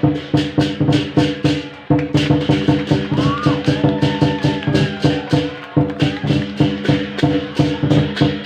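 Live traditional Javanese percussion ensemble of the kind that accompanies barongan, playing a fast, even rhythm of struck pitched notes at about four to five strokes a second, with a brief break about two seconds in.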